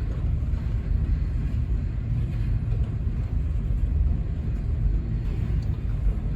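Steady low rumble of a freight train rolling slowly past, its cars passing by.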